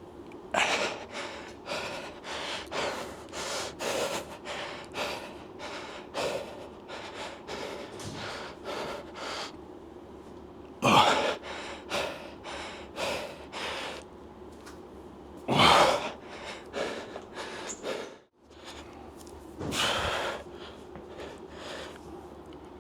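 A lifter breathing hard through heavy squat sets: quick, noisy breaths about two a second, then three much louder forceful exhales or gasps a few seconds apart.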